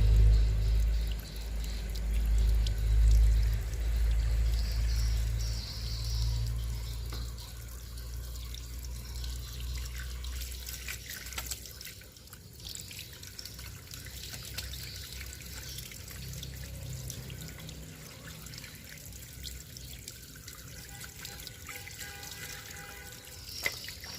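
Running water trickling, with a strong low rumble through roughly the first ten seconds.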